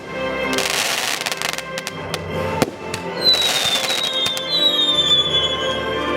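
Fireworks display over music: sharp bangs, a spell of crackling about half a second in and another about three seconds in, then high falling whistles over the second half, with music playing throughout.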